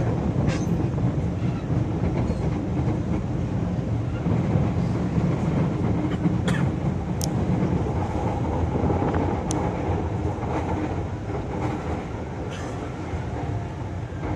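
Cabin noise of a Manila MRT-3 light-rail train running on its elevated track: a steady rumble with a couple of brief high squeaks about midway. It eases a little near the end as the train pulls into a station.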